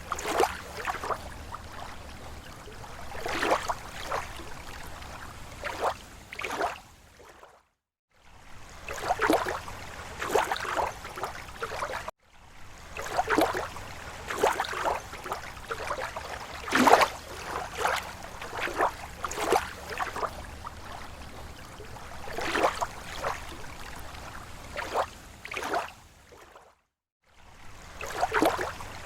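Small, slow waves lapping against a lake shore: irregular clusters of soft splashes and slaps over a steady low wash of water. The sound cuts out to silence briefly two or three times.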